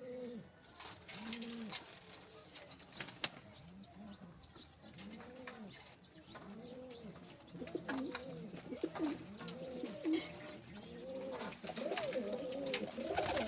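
Pigeons cooing: low arched coos repeat about once a second, and from about halfway through several birds overlap. Fainter high chirps and a few sharp clicks are mixed in.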